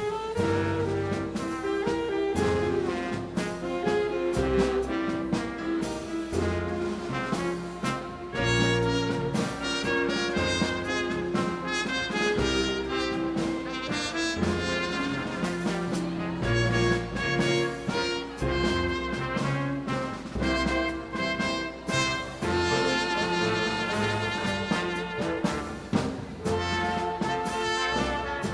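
A dance band playing a Latin number live, with trumpets, trombones and saxophones over a steady bass and percussion beat.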